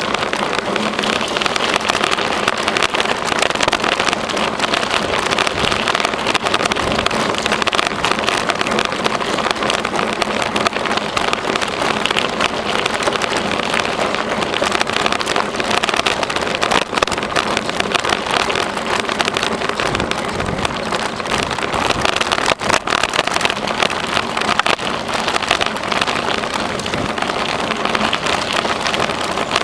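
A bicycle riding along a trail: a steady crackling rush of tyres rolling over the path surface, with small clicks and rattles throughout.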